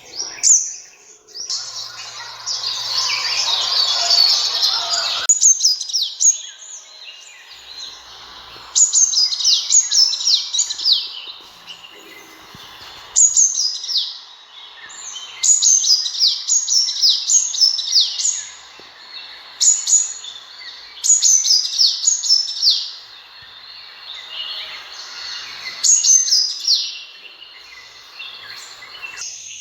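Sunbird calling: quick runs of high, thin notes that slide downward, given in short bursts every couple of seconds. A few seconds of louder hissing noise lie under the calls near the start.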